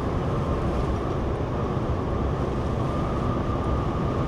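Steady engine and road noise heard from inside a moving semi-truck's cab.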